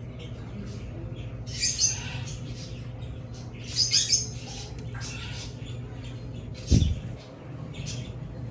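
Caged parrots squawking: two short shrill bursts about two and four seconds in, over a steady low hum. Near the end comes one dull thump, the loudest sound.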